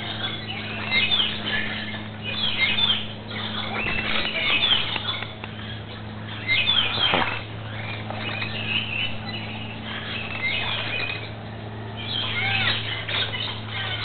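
Aviary birds chirping: clusters of short, high calls, with one call sliding steeply down in pitch about seven seconds in, over a steady low hum.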